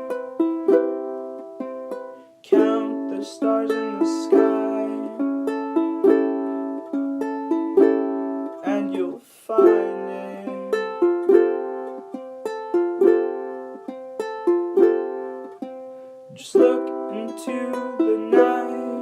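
Ukulele strummed in a steady chord pattern, an instrumental passage of a song with no singing. The playing breaks off briefly about two seconds in and again about nine seconds in, then picks straight up.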